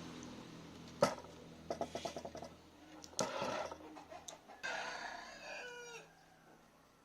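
A rooster crows once, about two-thirds of the way in: a single call of about a second and a half that falls in pitch at its end. Before it come a sharp knock about a second in, a short run of rattling clicks, and a second knock a little after three seconds; the knock about a second in is the loudest thing.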